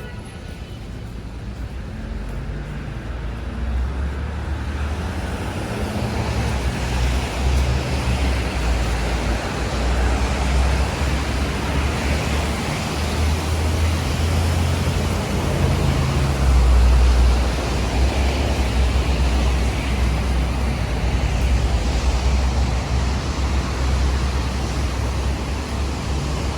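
Steady roar of city street traffic with a deep rumble underneath, growing louder over the first few seconds.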